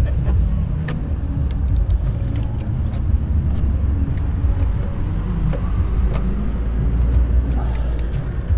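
Motor vehicle running, a steady low rumble with a few light clicks.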